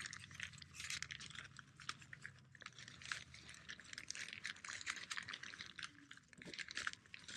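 Nylon pump sack and inflatable sleeping pad fabric crinkling and rustling in quick irregular crackles as the bag is squeezed to push air into a Nemo Tensor sleeping pad.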